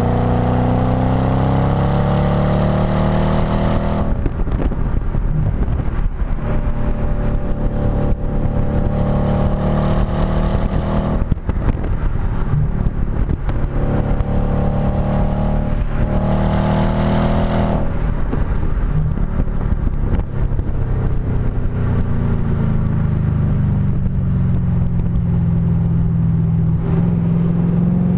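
Audi B7 S4's 4.2-litre V8 heard at its STaSIS aftermarket exhaust, accelerating hard with the pitch climbing over and over. It eases off about four seconds in, again around eleven and eighteen seconds, and builds once more near the end.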